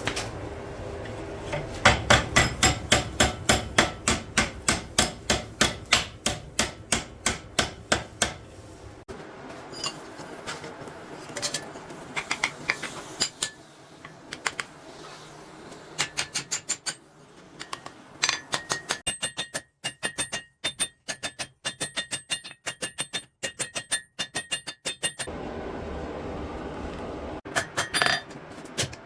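Blacksmith's hammer striking steel on an anvil while forging a sickle, in runs of about three blows a second, each with a bright metallic ring. The runs stop and restart abruptly several times, and a low steady rumble lies under the first part and again near the end.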